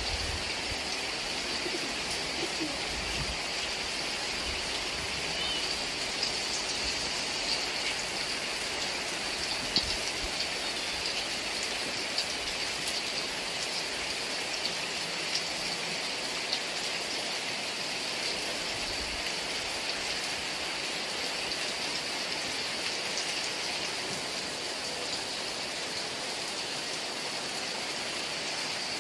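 Heavy rain falling steadily, an even hiss with scattered drop ticks and a few dull low thumps.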